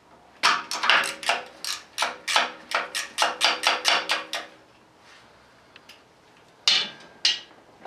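Hammer blows on metal during an engine teardown: a quick run of about fifteen strikes with a metallic ring, a pause, then two more blows near the end.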